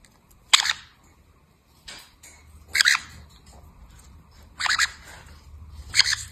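A parrot tearing paper with its beak: five short, sharp rips about a second or two apart, the one near two seconds in fainter than the rest.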